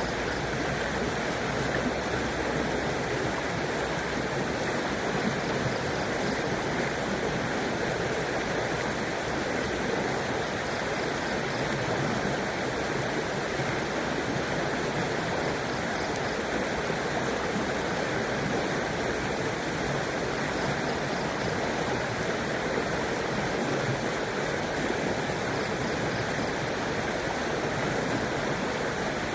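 River water flowing steadily, an even rushing sound with no breaks or changes.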